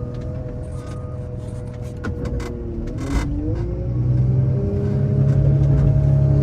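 A vehicle engine running, with its pitch dipping and climbing about three seconds in. It then pulls harder and grows louder, as under acceleration or load.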